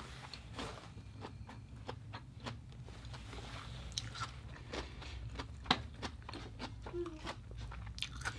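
Close-miked chewing of seafood with fish-roe dip: a run of irregular wet mouth clicks and small crackles, with one sharper click a little past the middle.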